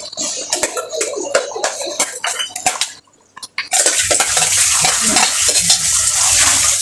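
A metal spoon clinks and scrapes against a cooking pan as chicken curry is stirred. After a short break about three seconds in, a loud steady hiss starts and continues.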